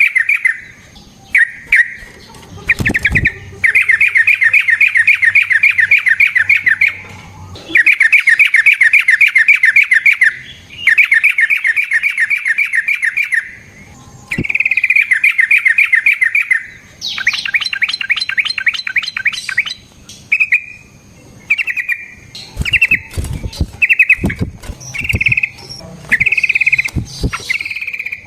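Yellow-vented bulbul (trucukan) singing long, rapid rattling trill phrases, each a few seconds long with short gaps between. Toward the end the phrases break into shorter bursts, and a few sharp clicks come in between.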